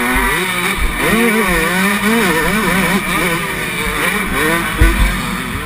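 Yamaha YZ125 single-cylinder two-stroke motocross engine revving up and down in quick rises and falls as the throttle is worked under racing load. A heavy low thump comes about five seconds in.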